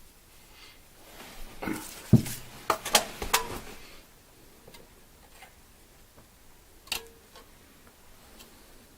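Clicks and knocks of small objects or hand tools being handled: a quick cluster of about half a dozen between two and four seconds in, then one sharp click near seven seconds.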